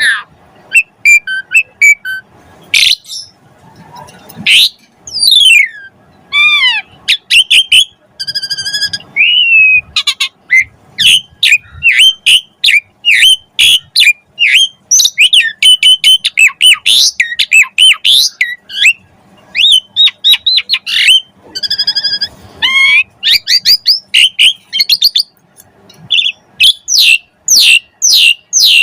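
Asian pied starling (jalak suren) in full song: a long, rapid run of loud, varied whistles, chirps and harsh squawks, many of them quick falling notes, broken by a few short pauses. The song is of the kind keepers call 'full isian', packed with mimicked calls of other birds.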